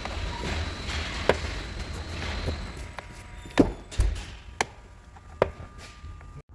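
Sharp clicks and knocks from a car door's door checker (check strap) as the door is swung, about five at uneven spacing, with a dull thump about four seconds in. This clicking is the sign of a worn door checker.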